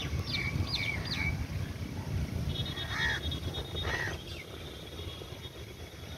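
Birds calling: three quick falling whistles near the start, then two short chirps about three and four seconds in, with a thin, steady high trill between them. Under it runs the low, uneven rumble of wind on the microphone.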